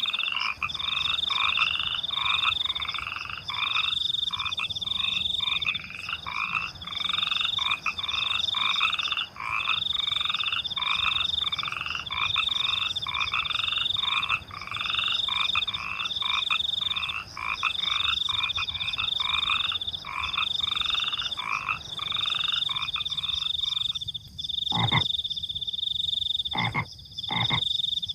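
Night chorus of frogs calling in rapid repeated croaks, about one a second, over a continuous high pulsing chirp of crickets. The frogs stop about four seconds before the end, leaving the crickets and a few sharp clicks.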